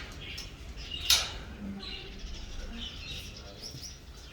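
Small Australian birds chirping in short calls, with one short, loud, harsh call about a second in.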